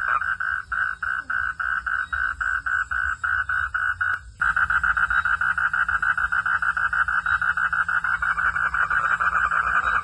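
Frogs calling in a steady pulsing chorus, about five pulses a second, over a low background rumble. The calling cuts out abruptly for a moment a little before halfway, then resumes denser and louder.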